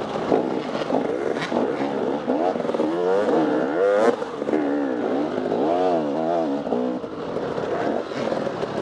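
Off-road dirt bike engine revving up and down constantly as the throttle is worked on and off through the trail, with a few sharp knocks.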